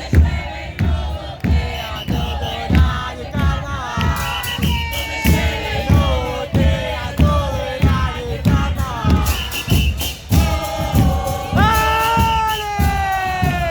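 Murga porteña performance: bombos con platillo beating a steady rhythm of bass-drum thumps and cymbal crashes, about two strokes a second, under a chorus of voices singing together, holding one long note near the end.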